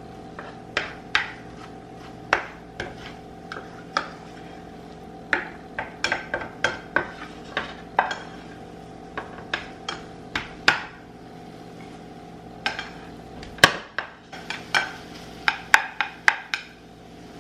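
A kitchen utensil clinking and scraping against a frying pan as eggs are stirred and scrambled, in irregular sharp taps, several a second at the busiest, over a steady low hum.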